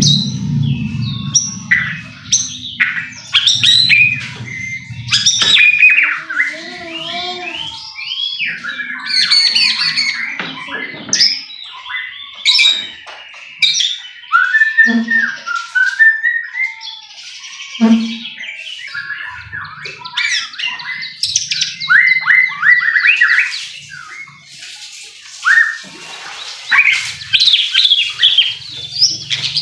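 White-rumped shama (murai batu) singing a long, varied song of clear whistles, rising and falling glides and fast trills, with scratchy notes mixed in. A low drone sounds under the first few seconds.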